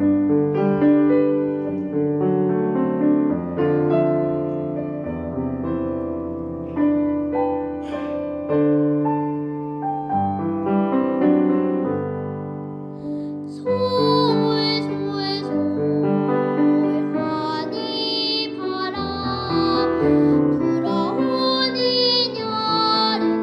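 Piano accompaniment playing the introduction of a Korean children's song, held chords in a slow lilt; about fourteen seconds in, a child's voice comes in singing over it.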